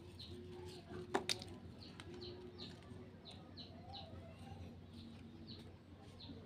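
A small bird chirping repeatedly, short high falling chirps coming two or three a second, with two sharp clicks about a second in.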